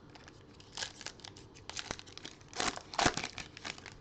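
A trading-card pack wrapper being torn open and crinkled by hand: a run of crackly rustles, loudest about two and a half to three seconds in.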